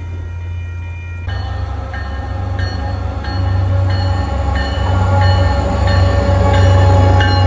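MBTA commuter train approaching, with a steady low engine hum and growing louder. About a second in, a steady tone starts and a bell rings about one and a half times a second.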